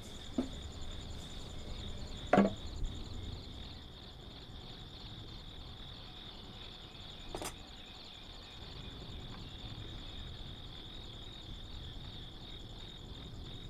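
Insects trilling steadily in the background, with a few scattered knocks: a loud one about two and a half seconds in and a sharp click about halfway through.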